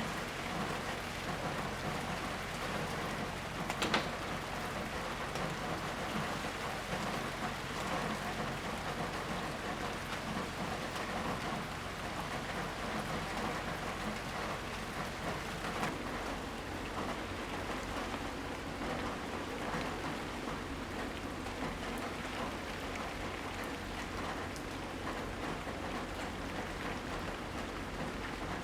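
Steady, heavy rain pattering on surfaces. There is one sharp tap about four seconds in.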